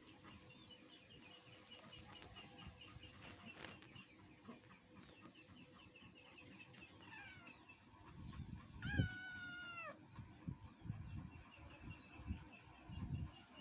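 A kitten meows once, a single call about a second long, about nine seconds in. Small birds chirp steadily in the background, and low rumbling noise comes in during the second half.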